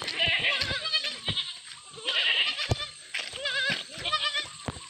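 Several goats bleating in overlapping, quavering calls, with a few sharp knocks among them.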